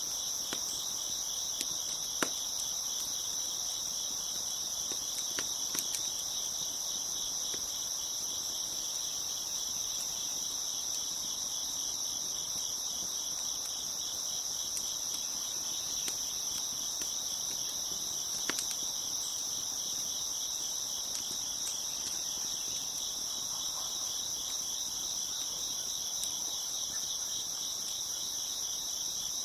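A dense, steady chorus of crickets chirping, with a few sharp pops from a crackling wood fire about 2, 6 and 18 seconds in.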